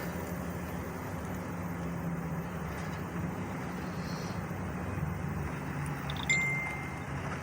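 A motor vehicle's engine idling with a steady low hum. About six seconds in there is a short, high electronic ding.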